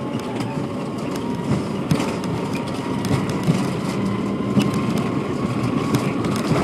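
Embraer ERJ-145 regional jet with its twin rear-mounted turbofans running: a steady heavy rumble with a faint engine whine on top, broken by frequent small clicks and rattles.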